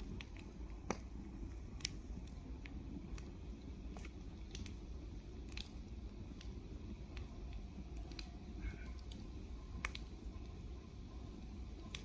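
Bonfire crackling: irregular sharp pops and snaps scattered over a low steady rumble.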